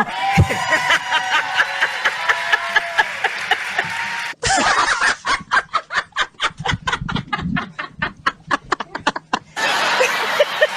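Laughter in cut-together clips, one of them a rapid run of short bursts, about four a second.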